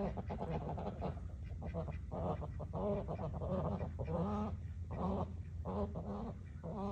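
Domestic fowl calling in a string of short, pitched calls, about two a second.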